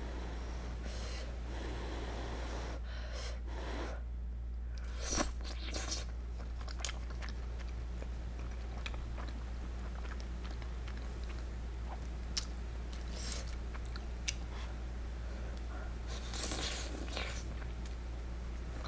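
A person chewing and eating a mouthful of creamy penne pasta with shrimp close to the microphone, with soft wet mouth sounds and a scatter of short sharp clicks. A steady low hum runs underneath.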